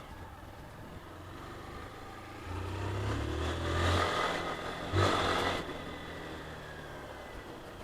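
A motor vehicle engine running, growing louder about two and a half seconds in. Around five seconds in there is a short, loud rush, the loudest moment, before it settles back to a steady lower hum.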